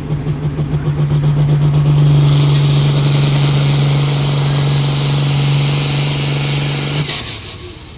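A pulling vehicle's engine running hard under load in a competition pull, with a high whine rising above it. The engine cuts off abruptly about seven seconds in.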